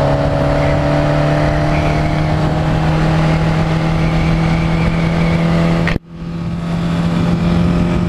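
Motorcycle engine running at steady revs, a steady hum whose pitch creeps slowly upward. It breaks off abruptly about six seconds in and picks straight up again.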